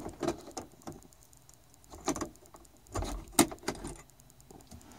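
Scattered small clicks, taps and rattles of hands working at a car's interior map light fitting, with one sharper click about three and a half seconds in.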